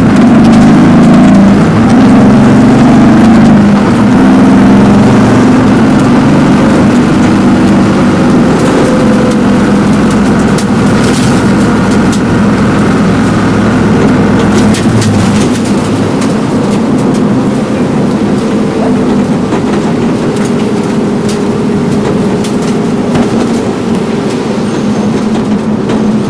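Engine of a BMW rally car heard from inside the cabin, running hard along a stage with varying revs, together with road and cockpit noise. About halfway through it settles to a steadier, slightly quieter note.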